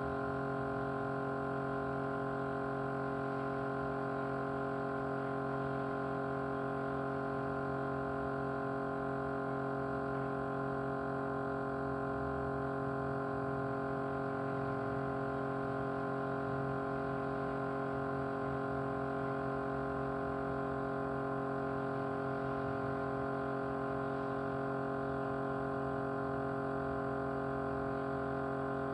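A small motor running steadily with a vibrating hum, many even tones held without change.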